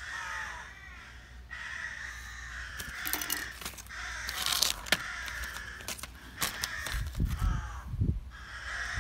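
A bird calling repeatedly, mixed with crackling handling noise from the plastic bags of small parts, and a few low thumps around the 7–8 s mark.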